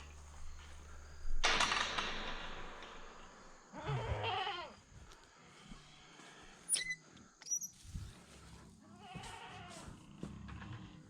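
Goats bleating, one call about four seconds in and another near the end, with a rustling noise before the first call and two sharp clicks between them. A low hum underneath dies away around the first call.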